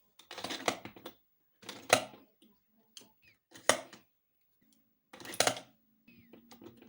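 Short bursts of clicking and clattering from objects being handled at close range, four or five in a row with pauses between, with a faint low hum starting near the end.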